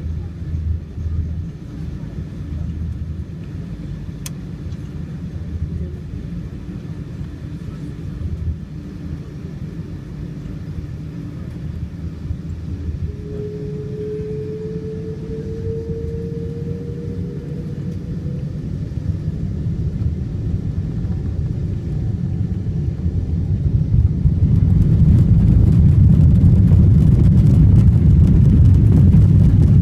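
Boeing 777-300 jet airliner heard from aboard: a steady engine rumble on the ground, with a faint rising whine in the middle. About 24 s in, the engines spool up and the rumble grows sharply louder as power is set for the takeoff run.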